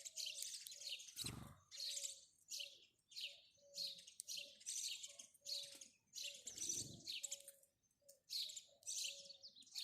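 House sparrow chirping: a steady run of short, high chirps, about two a second, with a brief pause near the end. Two soft low thuds sound under the chirps, one about a second in and one past halfway.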